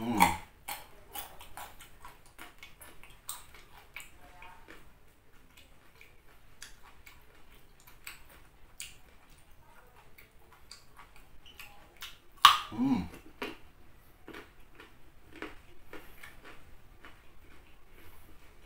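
Raw carrot being bitten and chewed close to the microphone: many short, crisp crunches, with one loud snap about twelve seconds in.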